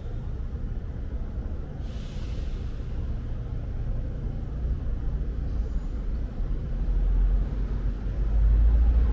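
Low rumble of city ambience, most likely distant road traffic, swelling near the end, with a brief hiss about two seconds in.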